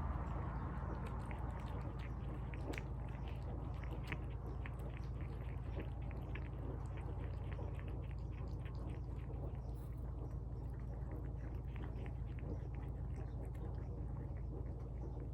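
A pet eating tuna from a bowl: a quick, irregular run of small wet chewing and lip-smacking clicks over a steady low hum.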